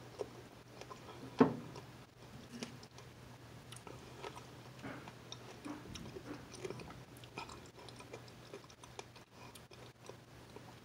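Close-up chewing of fresh strawberries, with soft wet mouth clicks and the odd tap of a metal fork. One sharper tap about a second and a half in.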